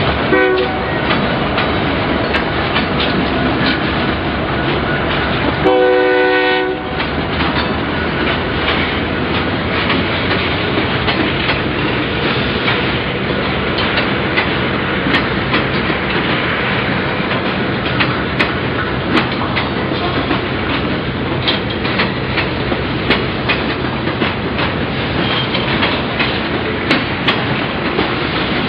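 Boxcars and covered hoppers of a Kansas City Southern manifest freight train rolling past: a steady rumble of steel wheels on rail, with repeated clicks over the rail joints. A locomotive horn sounds briefly about six seconds in.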